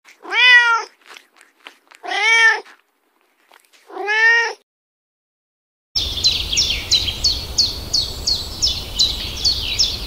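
A cat meows three times, each call rising and then falling in pitch, about two seconds apart. From about six seconds in comes a quick run of high, downward-sweeping chirps, about three a second, over a steady hiss.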